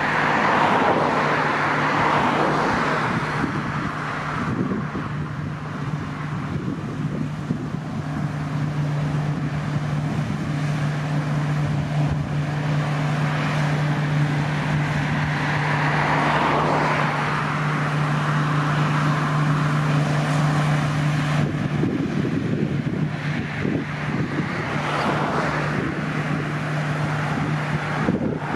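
Diesel harvest machinery running with a steady engine drone. A rushing mechanical noise swells and fades three times: at the start, about sixteen seconds in, and near the end.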